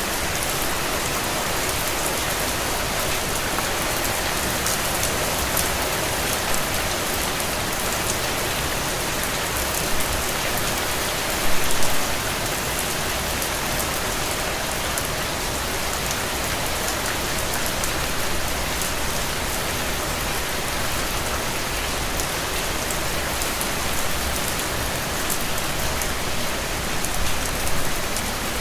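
Steady rain falling and pattering on a window, a dense even hiss flecked with individual drop ticks, with a brief louder patch of drops about twelve seconds in.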